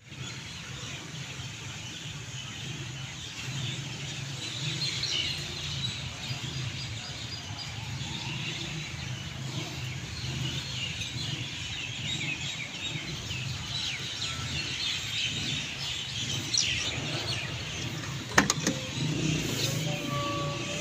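Suzuki K6A 660cc three-cylinder engine idling steadily, with birds chirping throughout. A few sharp clicks come near the end.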